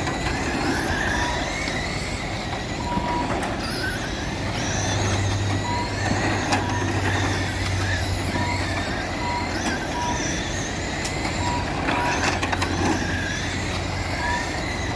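Several electric RC short-course trucks (Traxxas Slash class) racing, their motors whining up and down in pitch as they speed up and slow through the turns. Short single-pitch beeps recur every second or so from the lap-timing system as cars cross the line.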